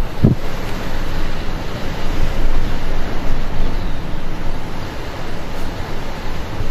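Strong storm wind rushing steadily and buffeting the microphone, with a low thump just after the start.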